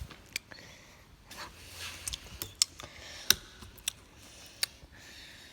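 A handful of sharp clicks and taps, irregularly spaced, over a faint background hiss.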